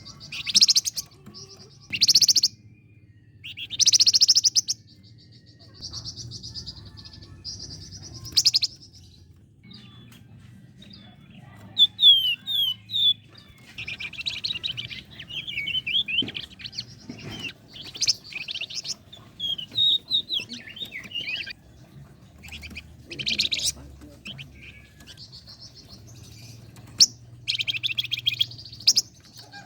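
A flamboyan songbird singing hard, in loud short bursts of buzzy song. About twelve seconds in it breaks into rapid runs of quick whistled notes, then returns to the short bursts near the end.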